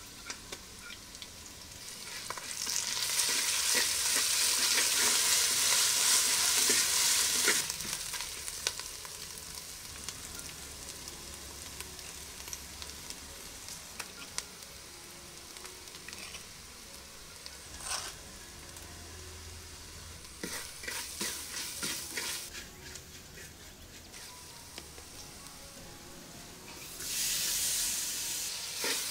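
Onions, green chillies and ginger-garlic paste frying in hot oil in a clay curry pot, stirred with a wooden spoon. A loud sizzle starts about two and a half seconds in as the paste hits the oil and dies down after about eight seconds. A quieter frying hiss follows with the spoon knocking and scraping against the pot, then a second loud sizzle starts near the end as chopped tomato goes in.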